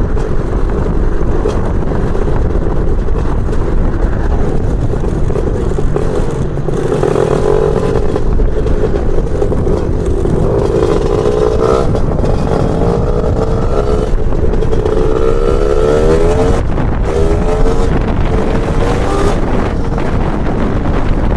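Lambretta scooter's BFA 325 two-stroke engine running under way, its pitch rising in several pulls as it accelerates and dropping back between them.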